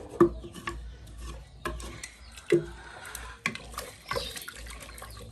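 Stirring in a cooking pot with a wooden mingling stick: a scraping sound with about five sharp knocks of the stick against the pot.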